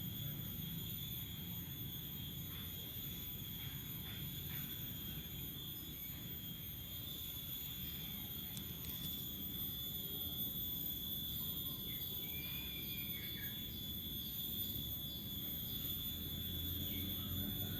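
Steady high-pitched drone of insects, with a low rumble underneath and a few faint chirps about twelve seconds in.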